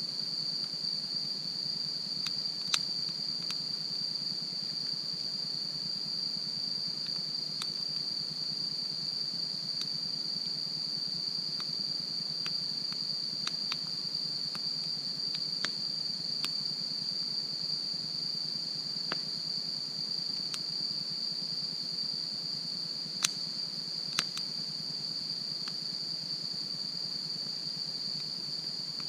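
Campfire crackling with scattered sharp pops, a louder one about three seconds in and two close together about three quarters through, over a steady high-pitched insect chorus.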